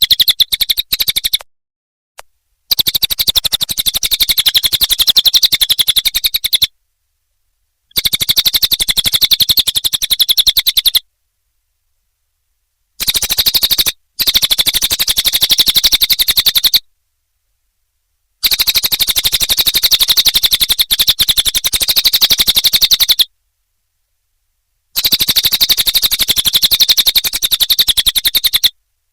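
Cililin bird song: a very fast rattling trill of repeated high notes, delivered in about seven loud bursts of one to five seconds each with dead-silent gaps between, looped as a masteran tutor recording for songbirds.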